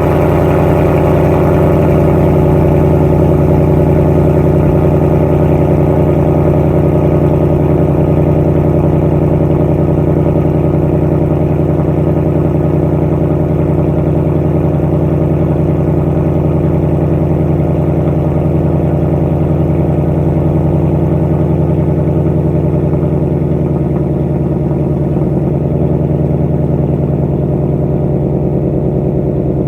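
2019 Mustang GT's 5.0-litre V8 idling steadily just after a cold start, through its active exhaust in track mode with a Steeda resonator-delete X-pipe. The idle eases down slightly after about 24 seconds.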